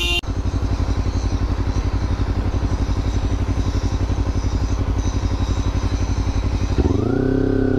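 Motorcycle engine idling with an even, rapid throb, then revving up near the end as the bike pulls away.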